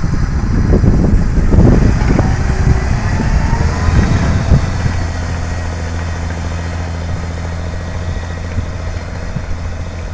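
New Holland TS135A tractor's six-cylinder diesel engine running: rough and uneven for the first few seconds, then settling into a steady drone about halfway through.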